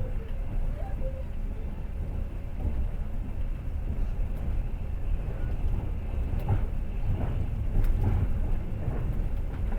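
Passenger train running along the track: a steady low rumble of wheels on rails, with a few sharper knocks of the wheels over rail joints in the second half.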